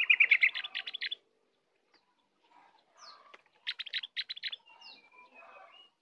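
Caged opior bird singing: a rapid string of bright chirps at the start and another about three and a half seconds in, with softer twittering and a few high slurred notes between them.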